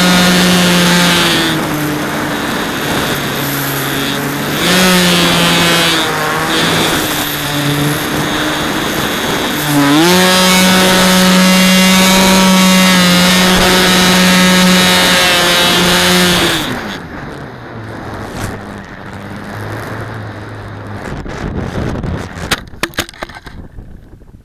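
Electric motor of a Multiplex Acromaster RC plane whining, heard from an onboard camera, its pitch shifting with the throttle and rising sharply about ten seconds in. The motor cuts out about seventeen seconds in, leaving wind rushing over the camera's microphone, then a run of sharp clicks and knocks near the end.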